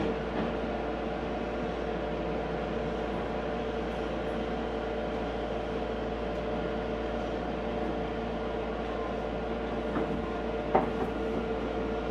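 Inside a Meitetsu 4000-series electric train car: a steady rumble with a steady electrical hum, and a brief clunk near the end.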